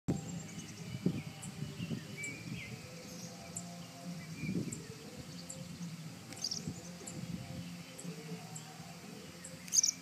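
Purple martins calling, with scattered short high chirps throughout and a louder call just before the end, over a low background rumble.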